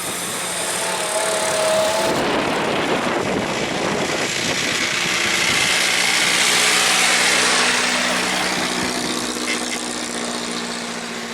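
A vintage vehicle's engine running as it drives past, growing louder to a peak about six or seven seconds in and then easing off, with a steady engine hum carrying on.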